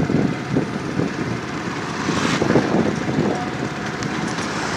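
Vehicle road and engine noise, an uneven rumble with irregular surges, while driving over a damaged, broken-up road.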